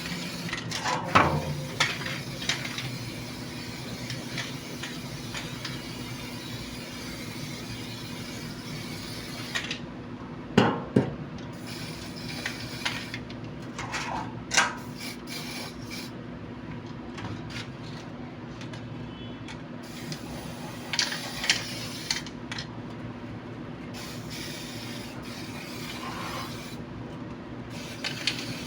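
Hand work on metal parts: intermittent scraping and rubbing with a few sharp knocks, about a second in and near eleven seconds in, over a steady low hum.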